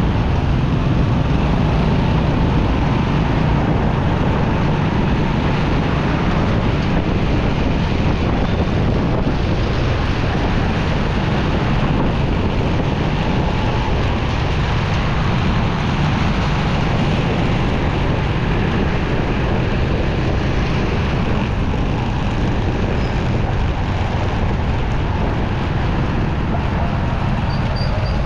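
Motorcycle riding at a steady pace: wind rushing over the microphone mixed with the engine's running and road traffic noise.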